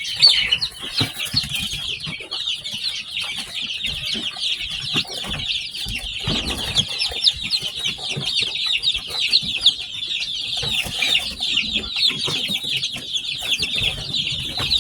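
A brood of newly hatched chicks peeping all together: a dense, continuous chorus of short, high, falling chirps.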